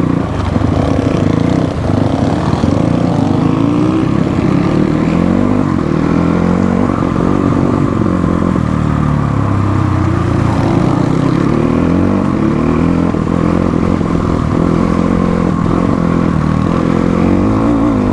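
Motorcycle engine running while being ridden, its revs rising and falling again and again as the throttle is worked.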